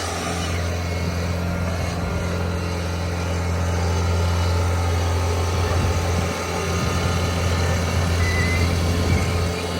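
Bobcat S66 skid steer's diesel engine running steadily at a constant speed while it works a hydraulic Harley rake attachment through the soil.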